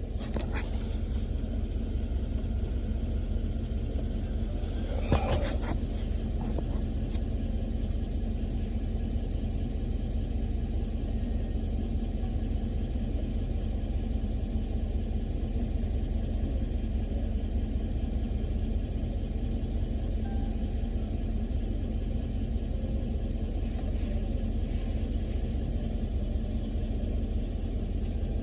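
Engine idling steadily with a low rumble, and a brief clatter about five seconds in.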